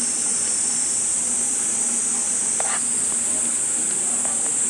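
Steady high-pitched drone of insects, with a brief short call a little past halfway.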